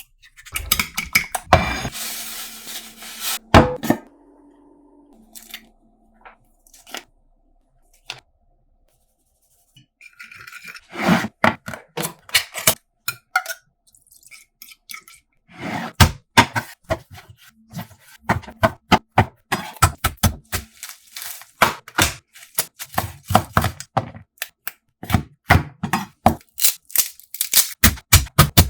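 Kitchen work sounds: many sharp knocks, clicks and clinks of utensils and dishes, with some scraping. There is a quiet stretch a few seconds in, then a dense run of quick knocks toward the end.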